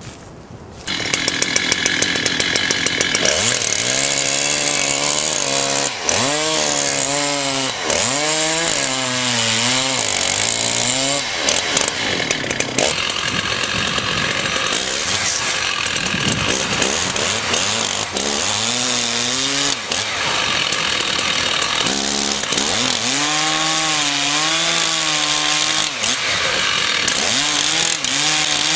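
Chainsaw starting abruptly about a second in, then running at high revs with its engine note repeatedly rising and falling as it cuts into wood.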